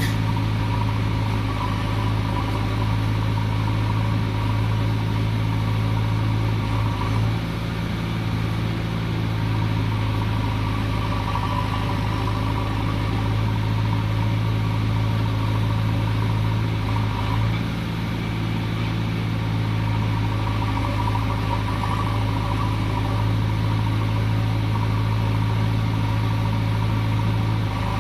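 Heavy diesel engine of a JCB 3DX backhoe loader running steadily, with a slight change in its note about seven and again about seventeen seconds in.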